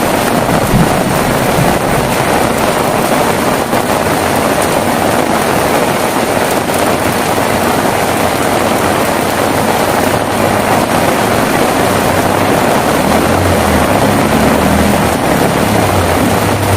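Heavy rain falling steadily. In the last few seconds a low rumble builds underneath it.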